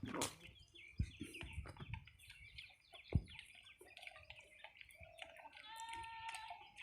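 Birds chirping and twittering faintly, with two sharp knocks about one and three seconds in and a drawn-out call near the end.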